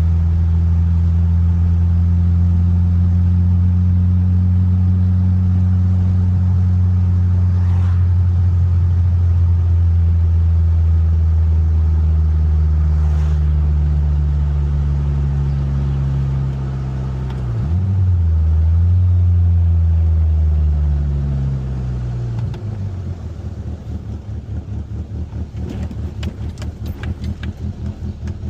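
1995 Mitsubishi Eclipse GSX's turbocharged 4G63 four-cylinder engine running at steady revs while driving. About 17 seconds in the pitch dips, then falls over a few seconds as the car slows, ending at low revs with an uneven pulsing.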